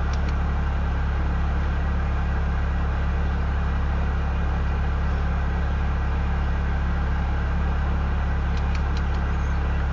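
Steady low drone of a slow-moving Union Pacific freight train passing, with its mid-train distributed-power diesel locomotives just gone by.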